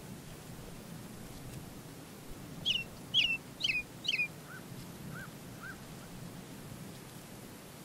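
A bird calling: four sharp, quick chirps, each sliding down in pitch, about two and a half seconds in, then three fainter, lower chirps, over a steady low background noise.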